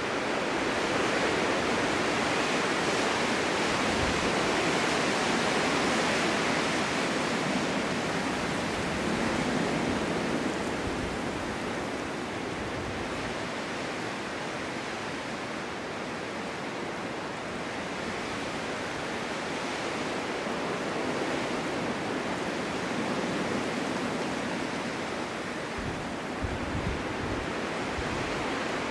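Strong winter wind blowing steadily, a dense rushing noise that swells and eases in slow gusts, with a few low buffeting thumps near the end.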